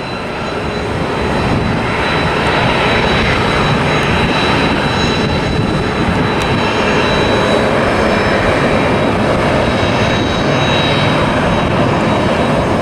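Jet airliner engines at takeoff power: a loud, steady rush of jet noise with a faint high whine, building over the first second or so and then holding.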